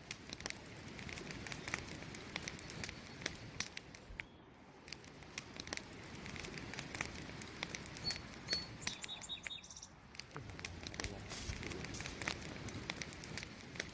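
Wood fire crackling with many sharp pops over a soft hiss, and a few short high bird chirps about eight to nine seconds in.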